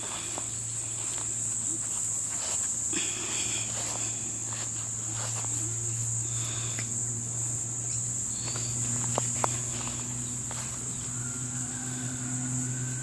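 A steady high-pitched insect chorus over a low steady hum, with scattered faint clicks and brief squeaks.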